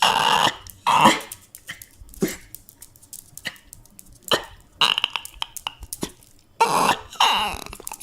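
A dog whining and crying in a series of about seven short, irregular vocal bursts.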